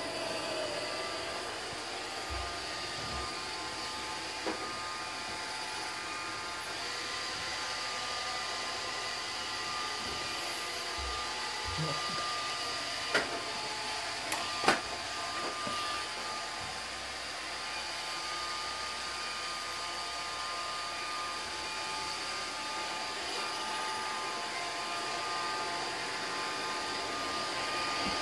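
iRobot Roomba 620 robot vacuum running, a steady whir with a high whine from its motors, with a few sharp clicks about halfway through.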